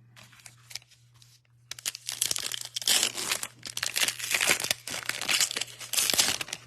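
Crinkly foil wrapper of a trading-card pack being torn open and crumpled, a dense crackling that starts about two seconds in after a few light clicks.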